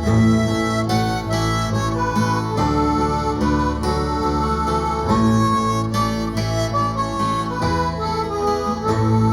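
Acoustic folk music instrumental break: a harmonica plays the melody over strummed acoustic guitar chords between sung verses.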